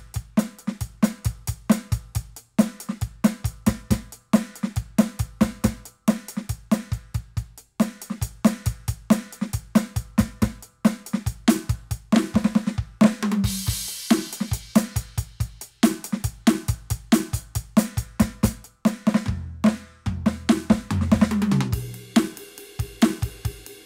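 Roland TD-17KVX electronic drum kit being played in a steady groove of kick, snare and hi-hat through the module's sounds. A cymbal crash rings out about halfway through, and a tom fill comes near the end.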